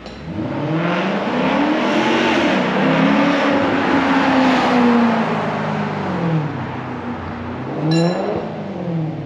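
Maserati GranTurismo 4.7-litre V8 revved through an Emil performance exhaust: two long revs that climb and fall back, then a short blip about eight seconds in.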